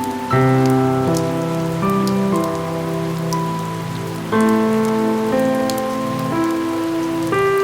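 Steady rain with scattered raindrop ticks, under soft background music of held chords that change every few seconds.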